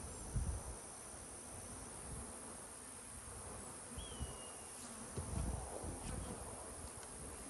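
Honeybees buzzing in flight around their hives, a testy colony flying at the beekeeper. A few low bumps come about half a second in and again around five seconds in.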